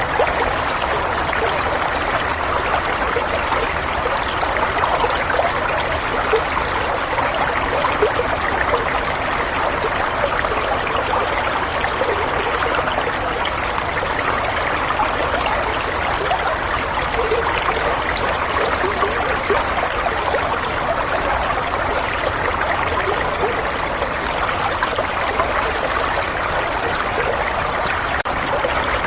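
Running water flowing and trickling steadily, like a small stream, with no breaks or changes.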